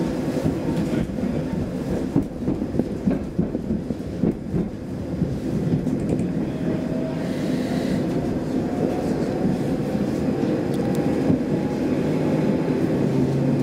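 Saltsjöbanan C10 electric train heard from inside the carriage while running: a steady rumble of wheels on rail with scattered knocks and rattles in the first few seconds, then a thin motor whine that rises slowly in pitch as the train picks up speed.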